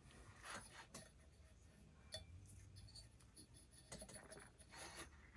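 Near silence with a few faint, short metallic clicks and clinks of small parts being handled.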